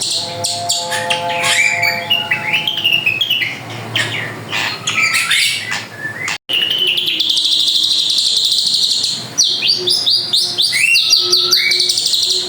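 Drongo (srigunting) singing a fast, varied song of chirps and whistles, with a long high trill in the middle. The sound cuts out for an instant about six seconds in.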